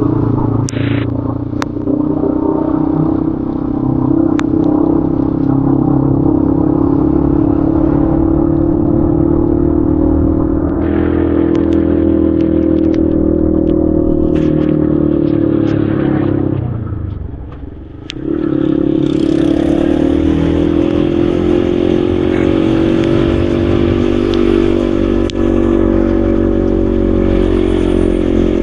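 Yamaha XSR155's single-cylinder engine running steadily while riding. The engine sound drops away briefly a little past halfway, as if the throttle is eased off, then picks up again with more rushing hiss.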